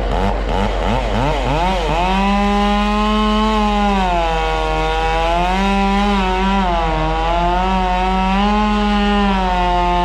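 Stihl chainsaw revved in quick blips for about two seconds, then held at full throttle, its pitch sagging and recovering again and again as the chain bites into a palm trunk.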